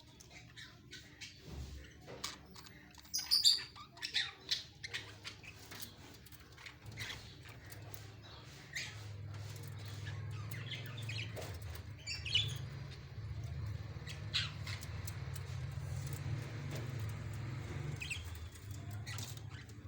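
Birds chirping and squawking in short, sharp calls, loudest and most frequent a few seconds in, over a low steady hum that comes up about halfway through.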